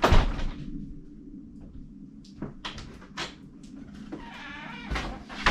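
Knocks and metallic clinks from lug nuts and tools being handled during a wheel change, the loudest at the very start and a couple more near the end, over a steady low hum.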